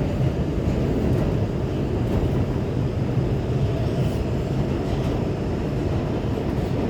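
New York City subway A train running between stations, heard from inside the car: a steady low rumble of wheels on the rails, with a few faint clicks.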